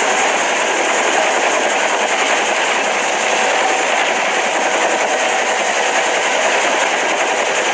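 Helicopter running: a steady, dense mechanical noise with faint steady tones underneath.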